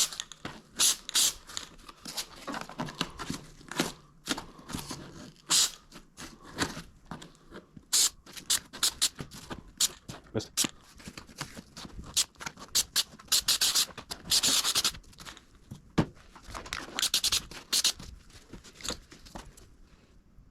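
Aerosol can of headliner spray adhesive hissing in many short bursts, a few held for about a second, with cardboard scraping and rubbing between them as the adhesive is spread.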